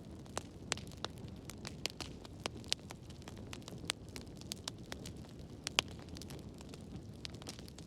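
Wood fire burning in a fireplace: irregular sharp crackles and pops over a low, steady rumble of the flames, with one louder pop about three quarters of the way through.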